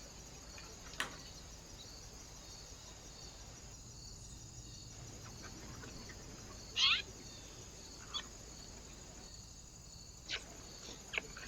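Small birds giving a few brief, scattered chirps, the loudest a quick sweeping call about seven seconds in, over a steady faint hiss.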